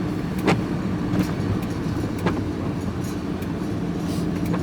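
Engine and road drone heard from inside a moving vehicle's cab, with a few sharp knocks or rattles over the steady hum.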